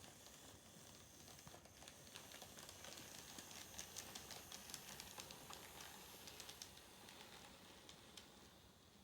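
Faint, quick, irregular clicking over low background hiss, thickest in the middle of the stretch.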